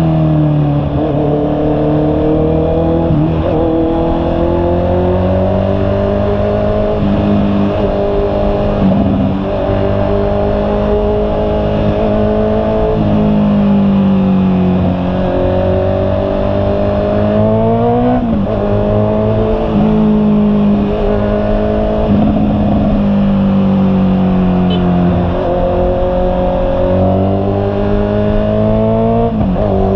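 A Honda CB650R's inline-four engine under way. Its pitch climbs steadily through each gear and drops sharply at each upshift, about half a dozen shifts in all.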